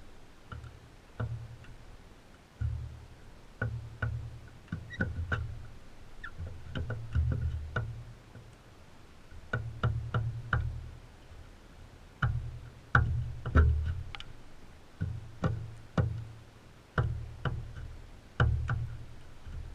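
Irregular sharp clicks and knocks with low thumps, coming in clusters of several a second: birds, likely crimson rosellas, pecking at seed and knocking against the feeder close to the microphone.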